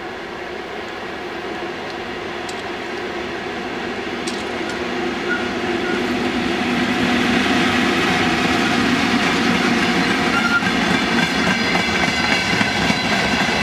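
VL10U electric freight locomotive approaching and passing with a train of hopper wagons. The rumble grows louder over the first half, then holds as a steady rolling noise of the wagons on the rails.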